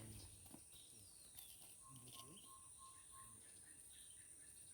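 Near silence: faint outdoor ambience with a steady high-pitched insect drone, like crickets.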